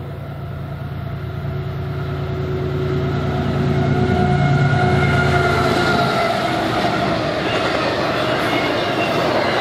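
Freight train passing close by: its diesel locomotives grow louder as they approach, and about six seconds in the engine drone gives way to the noise of double-stack container cars' steel wheels rolling over the rails.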